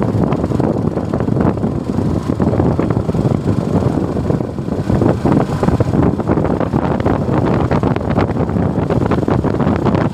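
Suzuki Gixxer motorcycle ridden at steady speed, its engine and road noise half-buried under loud wind buffeting on the microphone.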